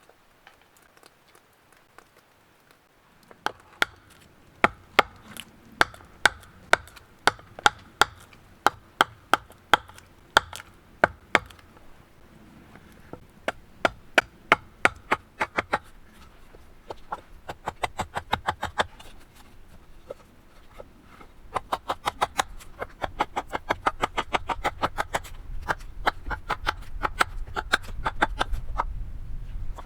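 A knife blade striking wood in a run of sharp chopping knocks, about two a second. Later the strokes come faster and lighter, over a low rumble that grows toward the end.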